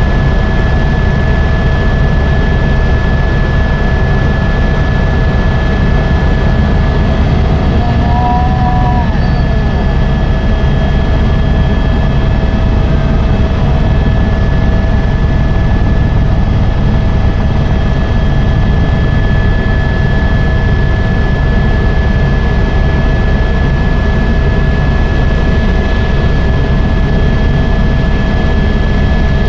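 Helicopter in flight: a loud, steady rotor and engine drone with a constant high whine running through it.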